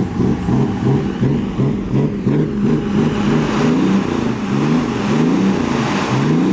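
A performance car's engine running loud, its pitch rising and falling over and over as it is revved.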